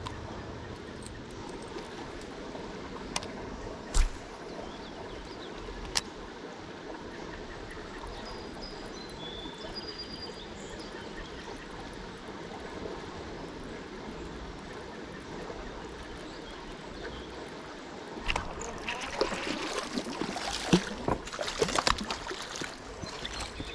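Creek water running and trickling steadily, with a few sharp clicks in the first quarter. Near the end comes a louder, irregular stretch of rustling and clattering.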